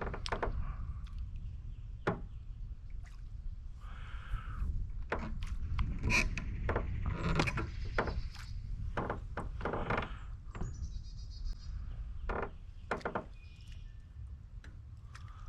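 Wind buffeting the microphone as a fluctuating low rumble, with scattered sharp knocks and clicks.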